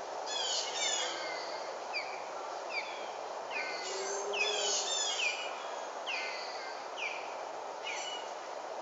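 Small birds calling: a run of short, high chirps that slur downward in pitch, several overlapping, over a steady background hiss.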